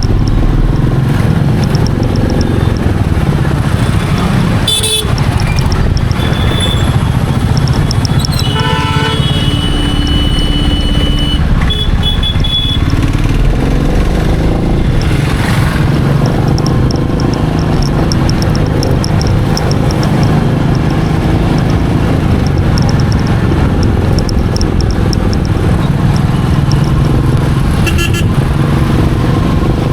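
Royal Enfield Meteor 350's single-cylinder engine running steadily while riding in traffic, with a vehicle horn honking for about three seconds from roughly nine seconds in and brief horn toots around five seconds and near the end.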